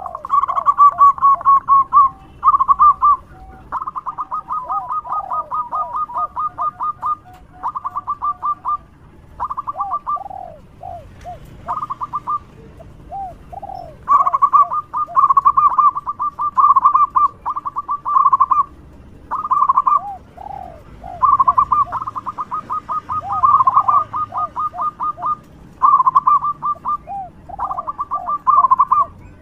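Zebra dove (perkutut) cooing loudly in repeated phrases, each a fast run of short clipped notes with lower rolling coos beneath, the phrases broken by short pauses.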